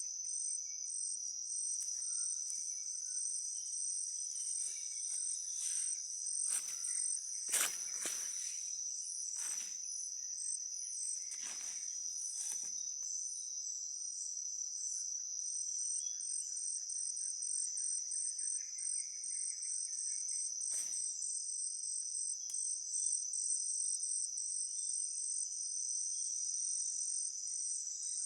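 A steady, high-pitched chorus of rainforest insects shrilling without a break. A handful of short crackles cut through it, mostly in a cluster about a third of the way in and once more about two thirds through.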